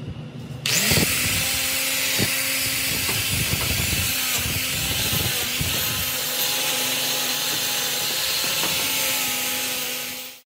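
A power tool running steadily: a motor hum under a loud hiss that jumps up under a second in, holds even, and cuts off abruptly near the end.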